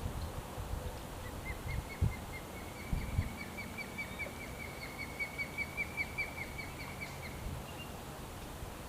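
A bird calling a fast series of short chirped notes, about four a second, lasting about six seconds, over low wind rumble. A couple of dull knocks sound a couple of seconds in.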